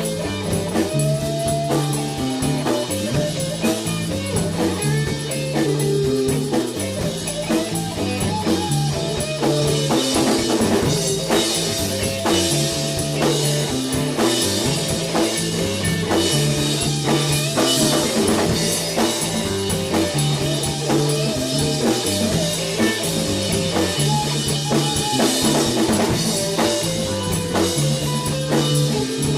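Band playing live: drum kit and guitar over a repeating bass line.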